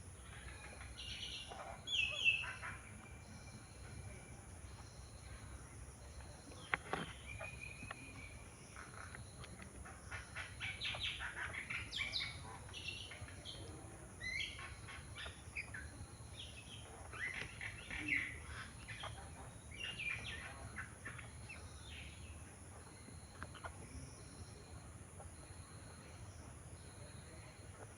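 A flock of birds chirping and calling in short, scattered bursts, busiest midway, with a few sharp clicks among the calls.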